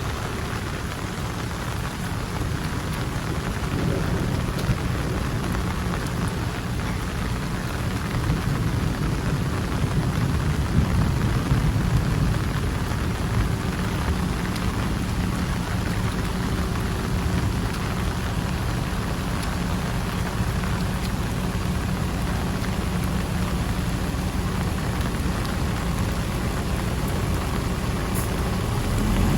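Heavy rain pouring steadily, with a deep low rumble underneath.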